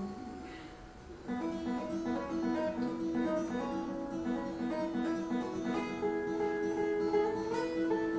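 Acoustic guitar playing an instrumental passage of picked notes over a ringing bass, coming back in about a second in after a short lull.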